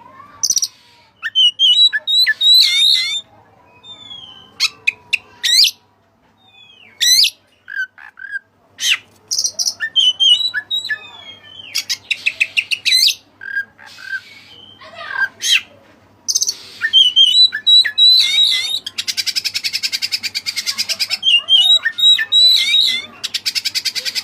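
Oriental magpie-robin of the white-breasted form singing a long, varied song, its repertoire filled with mimicked cililin notes. It mixes short whistled phrases with harsh calls and several fast buzzy rattling trills, the longest lasting about two seconds in the second half.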